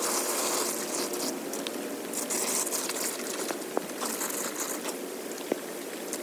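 Floodwater running into a street drain, with intermittent crinkling and crackling of debris and a few sharp clicks. Three brief bursts of hiss come about a second apart.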